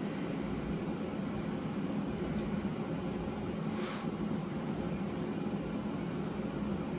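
Steady low mechanical hum of indoor background machinery, with one faint brief tick about four seconds in.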